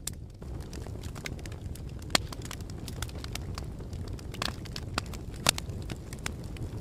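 Fire crackling: a steady low rumble of flames with frequent sharp pops and snaps, the loudest about two seconds in and again about five and a half seconds in.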